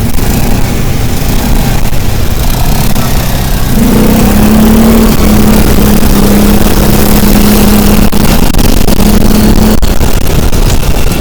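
A motor vehicle's engine running under a heavy low rumble. A steady hum comes in about four seconds in and stops near the end.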